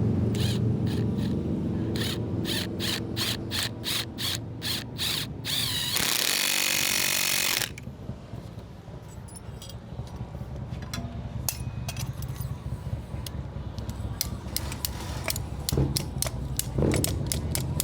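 A power tool run in a string of short bursts, about two a second, then held on for a second and a half. After that come light clicks and clatter of tools and parts over a steady low hum.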